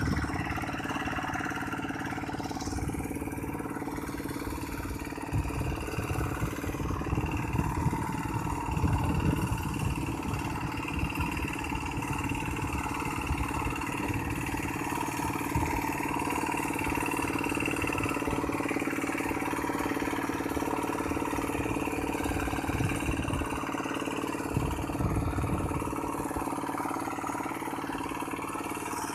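Farm tractor engine running steadily, with a couple of stretches of heavier low rumble.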